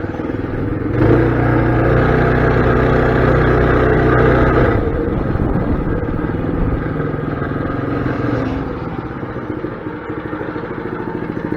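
Mini bike's small engine running: about a second in it is throttled up and held at higher revs for a few seconds, then drops back and settles to a lower, steady pulsing idle near the end.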